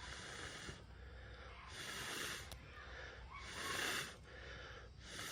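A person blowing into a small wood stove to rekindle a fire that has just gone out: four long, hissing puffs of breath, about a second and a half apart.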